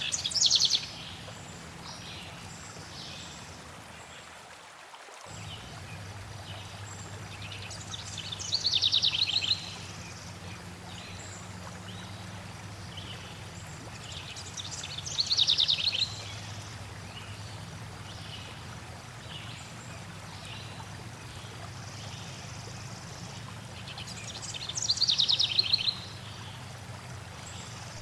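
Flowing water runs steadily while a songbird sings a short, rapid, high trill four times, roughly every seven to eight seconds.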